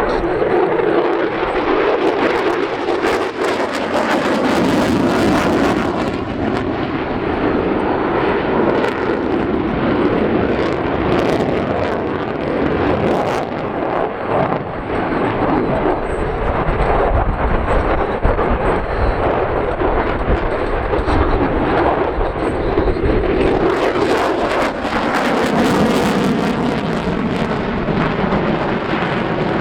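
Jet noise from an F-22 Raptor's two Pratt & Whitney F119 turbofan engines at high power during display manoeuvres: loud and continuous, swelling twice as the fighter passes, with a crackling edge.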